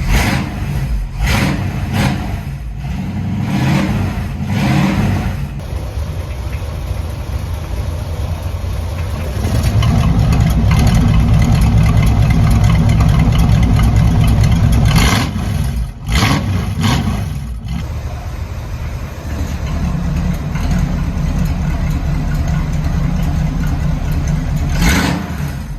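A 1951 Chevrolet Styleline Deluxe's engine running with its electric exhaust cutouts open, so the exhaust comes out unmuffled and loud. There are a few quick throttle blips, then the revs are held up for about five seconds in the middle, and after that it settles back to a lower run.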